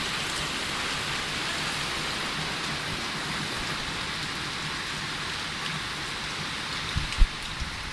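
Steady rain falling, an even hiss without letup. A couple of short low thumps come about seven seconds in.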